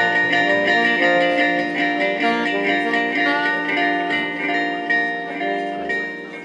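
Live gypsy jazz (jazz manouche) band playing, with guitars strumming under held notes; the music slowly gets quieter and dies away near the end.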